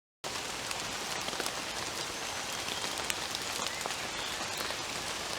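Gentle rain falling in woodland: a steady patter with many small, scattered drip ticks. It begins suddenly just after the start.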